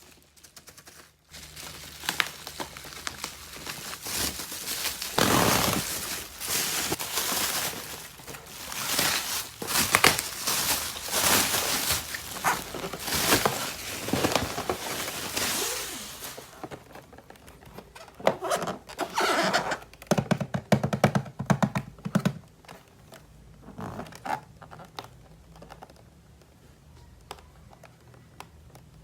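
Hands unboxing and handling plastic toys and their packaging: dense rustling, crinkling and scraping, then separate knocks and clicks of plastic pieces in the second half.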